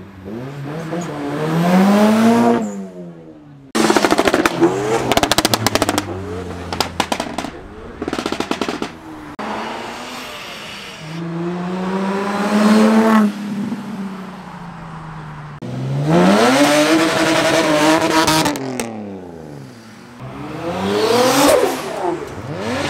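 Modified Japanese performance cars accelerating away one after another, each engine revving up hard in a rising pull, about five pulls in all. Around four to nine seconds in, rapid, loud exhaust pops and bangs crackle over the revving.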